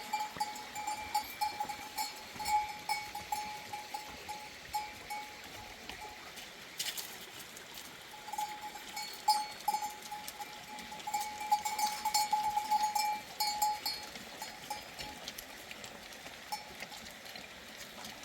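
Small bells on sheep clinking and jangling irregularly as the animals move and feed.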